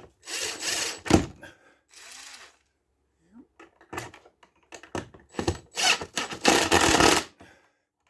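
Work noise from fitting screws into the plastic housing of an inline duct fan: scraping and knocking, with a sharp click about a second in and a longer noisy stretch near the end.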